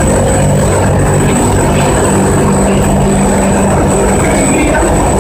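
Industrial fabric washing machine running: a loud, steady mechanical drone with a thin high-pitched whine held over it.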